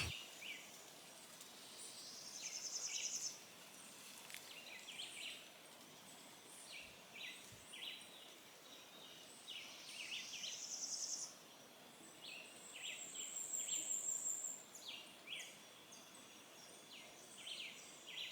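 Faint birdsong: many short, high chirps, with a buzzy, rapidly pulsed trill about a second long that comes back every few seconds.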